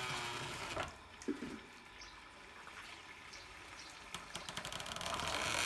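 Water running and splashing, swelling louder in the last second or so, with a few short sharp knocks about a second in and again after four seconds.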